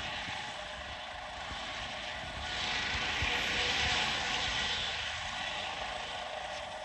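Helicopter running on the ground before lift-off, its engine and rotors giving a steady rushing whine that swells louder for a couple of seconds midway.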